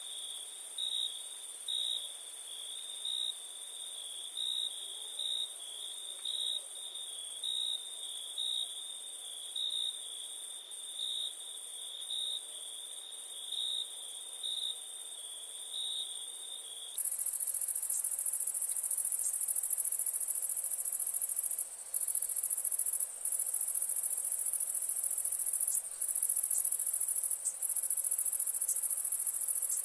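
Crickets chirping at night: one chirps about once a second over a steady, very high insect trill. About halfway through, the chirping stops abruptly and a much louder continuous high-pitched insect trill takes over, broken by a few brief pauses.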